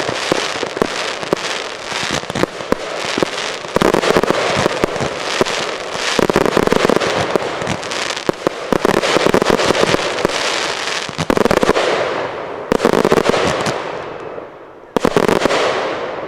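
Fireworks display: a dense, continuous crackle of aerial shell bursts and crackling stars, with heavier bangs about four, six, eleven, thirteen and fifteen seconds in.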